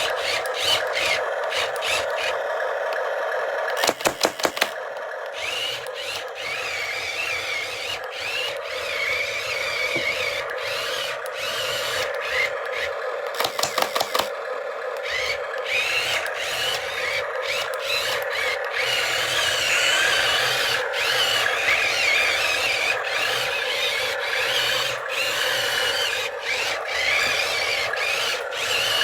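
A small electric motor whirring steadily with many clicks and rattles, and two short runs of rapid sharp pulses, about four seconds in and again near fourteen seconds.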